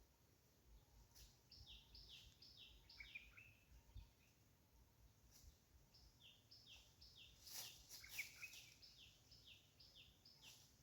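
Faint bird song from a small bird: two runs of quick, high whistled notes, each note falling in pitch, about five a second, with a few soft clicks between them.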